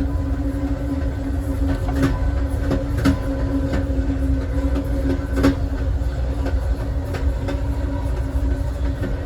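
Passenger train car riding at speed: a steady low rumble of wheels on rail with a constant hum, and a few sharp clicks from the wheels crossing rail joints.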